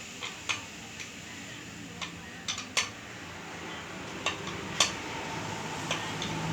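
Irregular sharp metallic clicks and clinks of hand tools and metal engine parts being handled during diesel engine assembly, about a dozen in all. The loudest come near the middle and about five seconds in.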